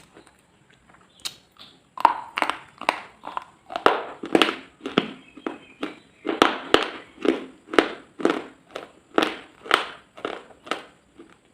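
Close-miked rhythmic crunching, about two crunches a second, beginning about two seconds in after a brief lull.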